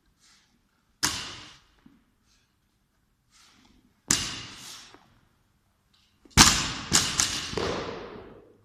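Loaded barbell with 10 kg and 2.5 kg plates hitting the floor again and again during workout reps: sharp clanging impacts about every three seconds, with three hits in quick succession about two-thirds of the way in as the bar lands and bounces.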